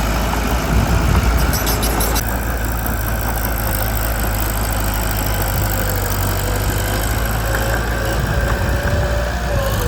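Mitsubishi BD2 bulldozer's diesel engine running steadily, with a few faint clicks about two seconds in.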